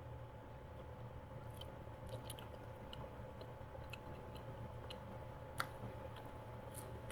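A person chewing bread with the mouth close to the microphone: scattered small clicks and squishes, one sharper click a little past halfway, over a steady low hum.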